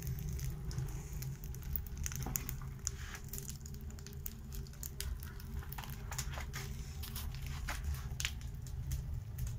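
Firewood burning in a newly built fireplace at its first firing: scattered crackles and pops over a low steady rumble of the flame drawing strongly up the chimney.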